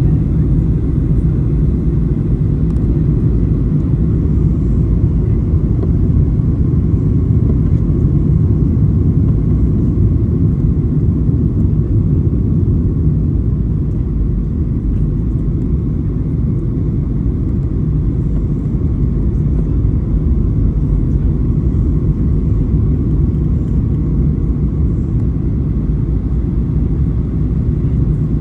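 Steady low rumble of a Boeing 737-800 airliner heard from inside the passenger cabin: engine and airflow noise, even throughout with no sudden changes.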